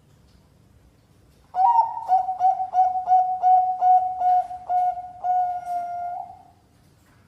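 Zebra dove (Bangkok-bred perkutut) singing: a rapid run of about a dozen short coos at one steady pitch, starting about a second and a half in and lasting some five seconds.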